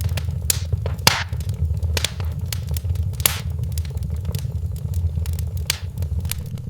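Wood fire crackling in a fireplace, with irregular sharp pops, the loudest about a second in, over a steady low rumble.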